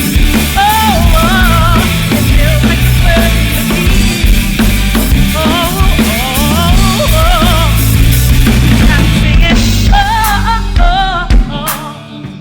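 A band playing: a drum kit and bass under a wavering melody line, the bass and drums falling away briefly near the end.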